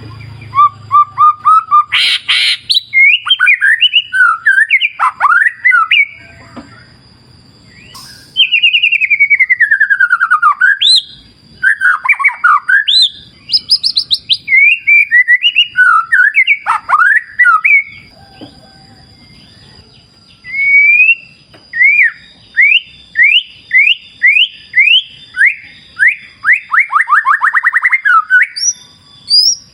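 White-rumped shama (murai batu) singing loud, varied phrases of clear whistles, swooping slurred notes and quick runs of repeated notes, with short pauses between phrases. A faint steady high tone runs underneath.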